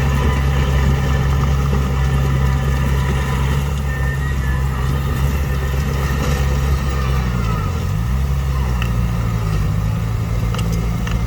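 Heavy earthmoving machine's diesel engine running steadily under load; about three-quarters of the way through its pitch dips briefly and then recovers.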